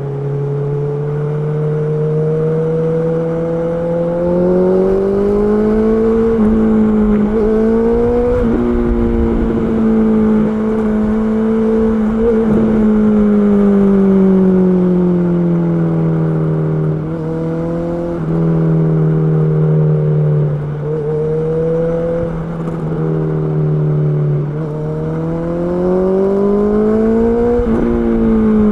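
Honda CB650R's inline-four engine under way: the note climbs with short breaks at gear changes, eases off and falls through the middle, then climbs again near the end.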